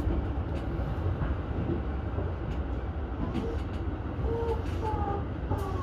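Keihin-Tohoku Line electric commuter train running, heard from inside the front car: a steady low rumble with faint clicks, and a few brief tones in the second half.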